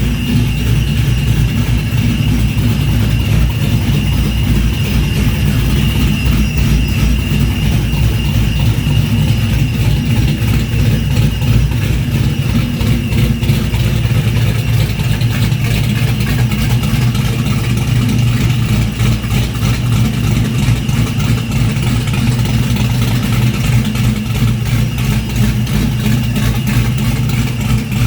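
Vehicle engine running at a steady idle on its first start-up.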